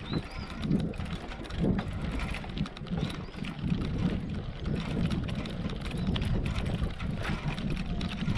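Wind rumbling on the microphone, with scattered light knocks and clicks.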